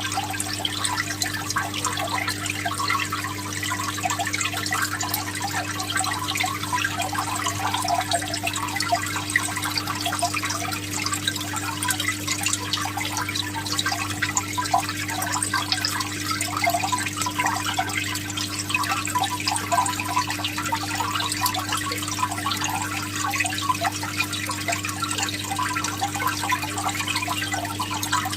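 Aquarium water bubbling and trickling steadily over a constant low hum from the tank's pump.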